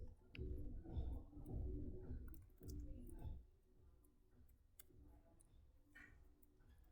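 Scattered computer mouse clicks and keystrokes, with a low, wordless voice mumbling over the first three seconds or so.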